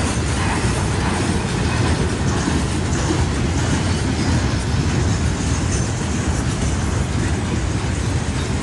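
Loaded freight train boxcars rolling past on the rails: a steady, loud rumble of steel wheels on track.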